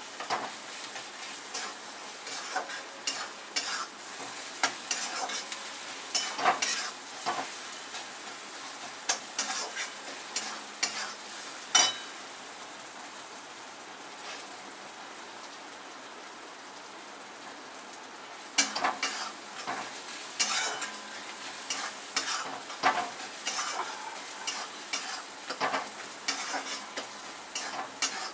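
Onion-tomato masala sizzling in a metal kadhai while a metal spatula stirs it, scraping and tapping against the pan. About twelve seconds in, the stirring stops for around six seconds, leaving only a steady sizzle, then it starts again.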